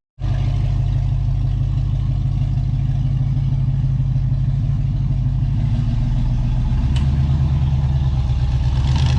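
5-litre V8 engine of a 4x4 off-road truck running steadily at low revs, its low note shifting a little about two-thirds of the way through, with a sharp click about seven seconds in.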